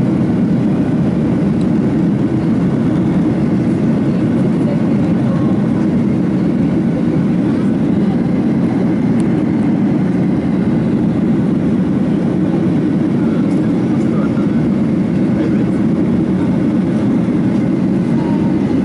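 Steady airliner cabin noise, a continuous low rumble of engines and airflow heard from inside the passenger cabin in flight.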